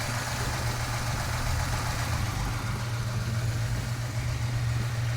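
1974 Chevrolet Monte Carlo's V8 engine idling steadily, running again on its repaired HEI ignition.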